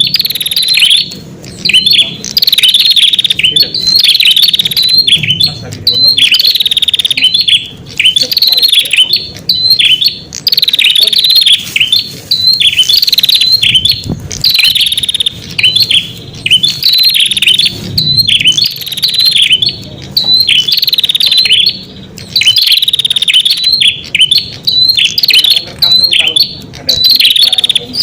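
Prenjak (red-headed prenjak) lure call: loud, fast chirping song in repeated bursts of a second or two with short gaps between them.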